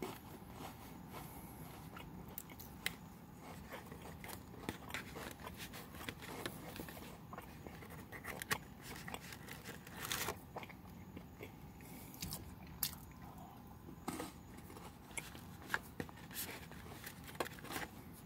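Close-up crunching and chewing of crackers, with irregular sharp crunches and clicks.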